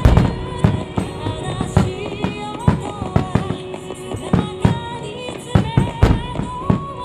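Starmine fireworks shells bursting in quick succession, with a dense cluster of loud bangs at the start and then irregular bangs, over music playing on the show's loudspeakers.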